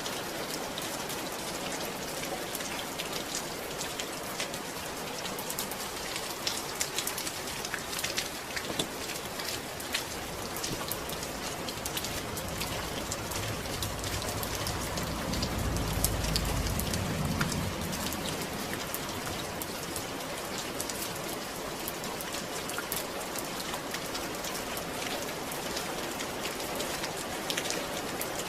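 Steady rain, a dense patter of drops. About halfway through, a low rumble swells and fades over a few seconds.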